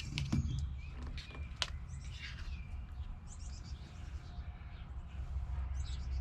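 Birds chirping in short scattered calls, over a steady low rumble.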